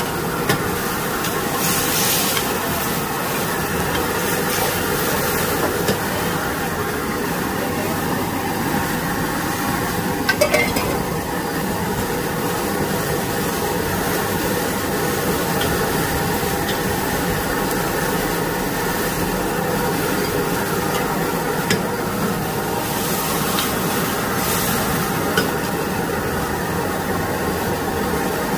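Pad thai stir-frying in a wok over a wood-fired stove: steady sizzling with a metal spatula stirring and scraping, a few sharp clinks, and louder bursts of hissing about two seconds in and again near the end.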